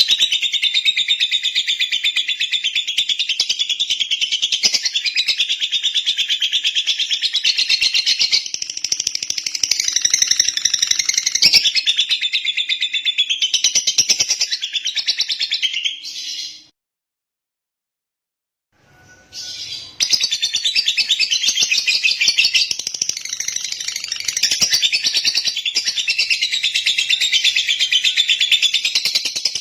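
Lovebird chattering in a fast, continuous high-pitched twitter. It cuts off completely for about three seconds just past the middle, then starts up again.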